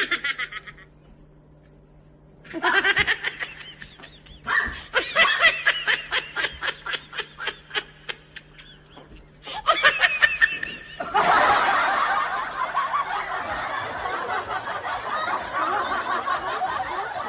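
Laughter in pulsing bursts, then a denser, unbroken stretch from about eleven seconds in.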